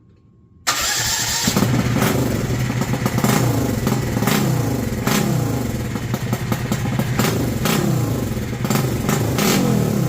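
Thump-Air four-stroke ultralight engine with a billet cylinder head, large carburettor and open exhaust, bursting into life about a second in and then running loud, revving up and down again and again, with sharp cracks through the run. The carburettor and ignition timing are still untuned.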